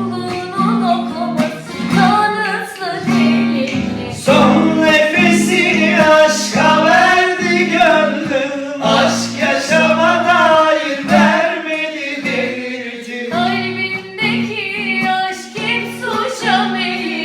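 A sung duet: a woman's voice singing a flowing, ornamented melody over an instrumental accompaniment with repeated low notes.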